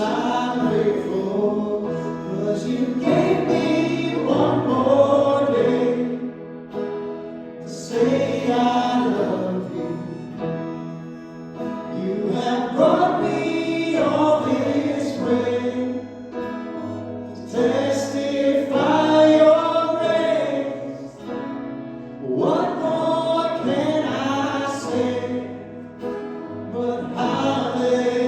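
Live gospel worship song: several voices singing together over a band, in sung phrases that begin roughly every four to five seconds.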